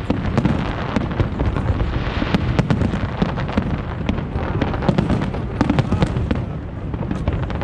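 Aerial fireworks going off in a dense, unbroken run of booms and crackles.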